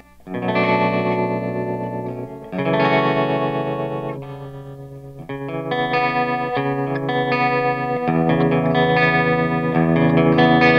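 Schecter C-1 Classic electric guitar on its bridge pickup playing clean chords through the Line 6 M13's tremolo effect into a Steamboat Classic 18 amp. Several chords are struck in turn, each left to ring.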